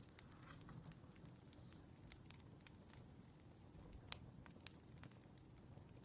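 Faint crackling of a wood fire: scattered sharp pops over a low, steady rumble, with the loudest pop about four seconds in.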